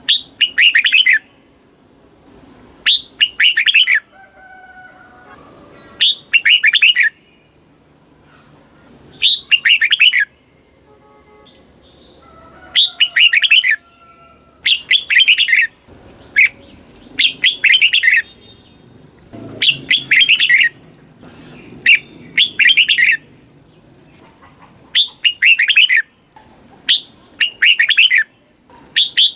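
Red-whiskered bulbul singing: short, rapid chattering phrases of about a second each, repeated every two to three seconds, about a dozen in all. Faint, lower whistles sound between some of the phrases.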